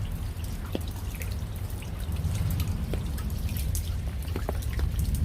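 Rain falling, with many scattered drops and drips over a steady low rumble.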